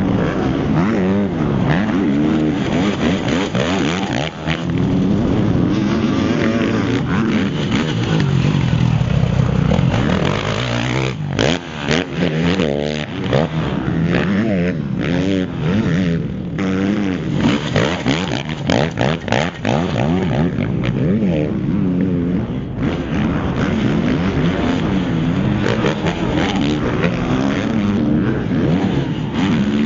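Motocross bike engine running hard around a track, its pitch climbing and dropping again and again as the throttle is worked, over a steady rush of noise. About eleven to thirteen seconds in, the engine drops back briefly amid a few sharp knocks.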